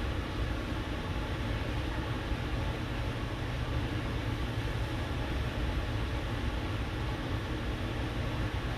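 Steady low rumble with an even hiss, unchanging throughout, with no distinct events.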